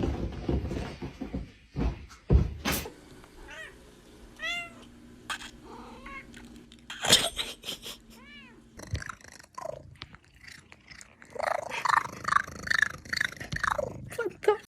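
Cats meowing: a few short, arching chirp-like calls, then a string of loud, repeated meows near the end. There are some knocks and thumps in the first few seconds.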